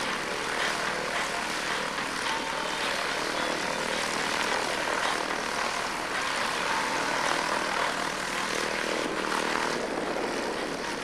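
Propeller aircraft engine running steadily, a continuous drone with no change in pitch or level.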